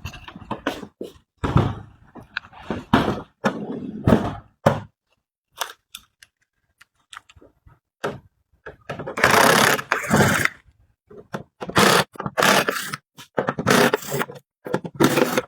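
Irregular scraping and knocking as a faulty electronic unit is handled and opened on the workbench, with a quiet pause midway and a longer scrape after it.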